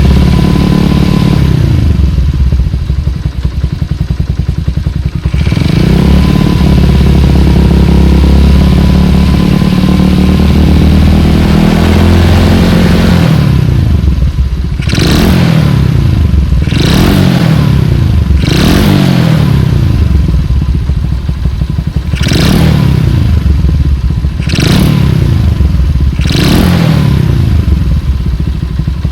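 Honda Super Cub's bored-up 88cc four-stroke single running through a Mizumoto Racing L-11 racing muffler. It is first held at raised revs, then from about halfway it is blipped sharply about every two seconds, each rev falling back.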